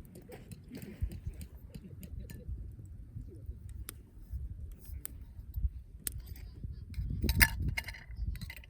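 Campfire crackling: irregular sharp pops and snaps of burning wood, thickest about seven seconds in, over a low rumble.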